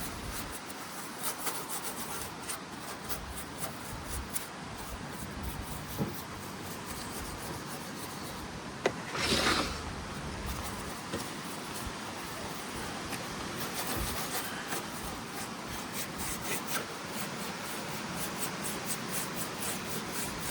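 Scrubbing on the metal and paintwork of a Doll 362 twin-cylinder toy steam engine during cleaning: a steady rubbing, rasping sound with small scrapes and clicks. A sharp click and a short hiss come about nine seconds in.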